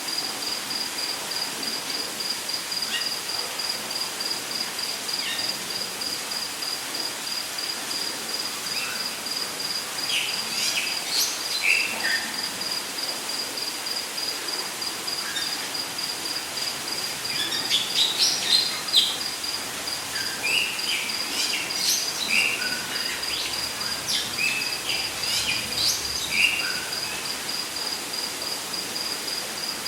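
Rainforest ambience: an insect, cricket-like, trills in a steady, rapid, evenly pulsed high note, while birds chirp in scattered short calls, busiest and loudest in the second half. Under it all runs a steady hiss of falling water.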